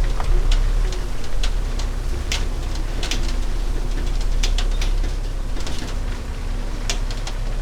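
Semi truck driving down the road: a steady low engine and road drone with scattered sharp clicks and ticks.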